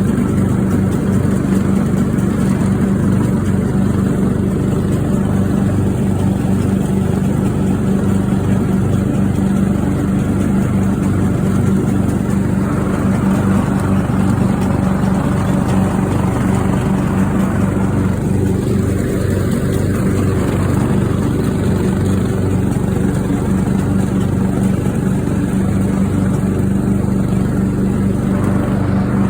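Craftsman riding mower's engine running at a steady speed, fitted with a new fuel shutoff solenoid after a no-start fault.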